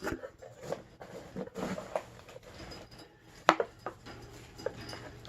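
Wooden parrot chew toys and packaging being handled: scattered light clicks and knocks, with one sharper knock about three and a half seconds in.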